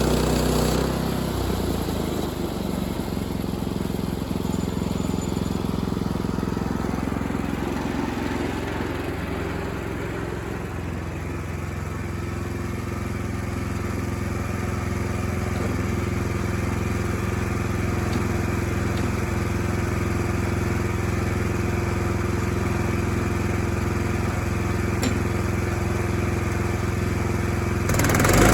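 An engine running steadily, with a change in its sound about a second in.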